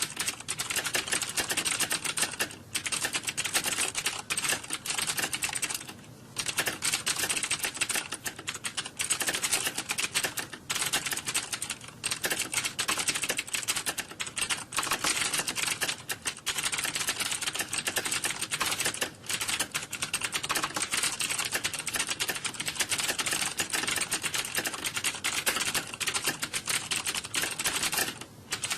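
Computer keyboards typed on rapidly and without pause: a dense, overlapping clatter of keystrokes like a typing exam hall full of people typing, with a few short lulls.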